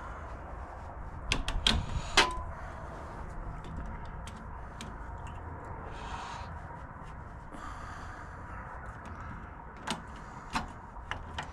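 Hand tools clicking and clinking on metal while the hose clamp on a small-engine fuel line is worked off: a cluster of sharp clicks about one to two seconds in, one with a short metallic ring, then a couple more near the end over a steady low hum.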